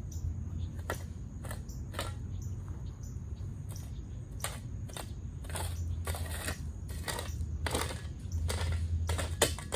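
Small decorative stones crunching and clicking against each other as they are handled and spread, in irregular sharp clicks throughout, over a steady low rumble.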